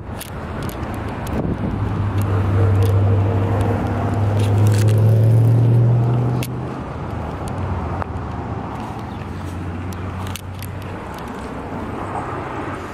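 A car engine running nearby, a low steady hum that rises a little in pitch and grows louder, then drops back sharply about six and a half seconds in and carries on fainter, with a few scattered clicks.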